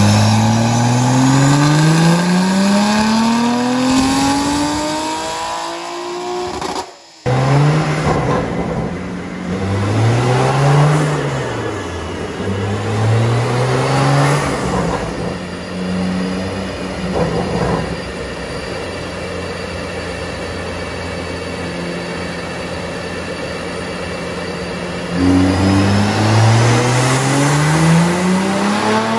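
Tuned BMW G80 M3's S58 twin-turbo straight-six, with a catless downpipe and valved catback exhaust, run on a chassis dyno. It makes a full-throttle pull climbing steadily in revs for about six seconds. After a brief break the revs rise and fall a few times, then hold steady, and near the end a new pull climbs again.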